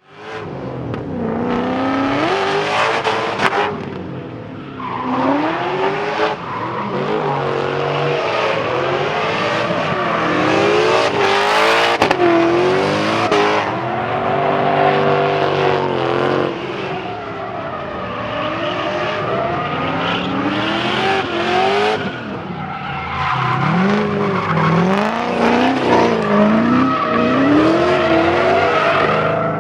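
Roush-built Ford V8 in a BMW drift car, the engine revving up and down over and over as the throttle is worked through the slides, with tire squeal underneath.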